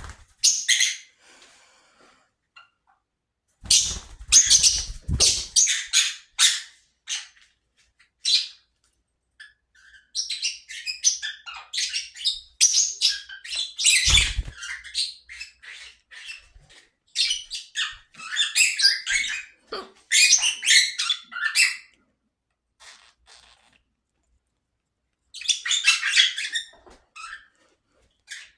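A bird chirping and chattering in bursts of rapid, high-pitched calls with short pauses between them, and a couple of low thumps.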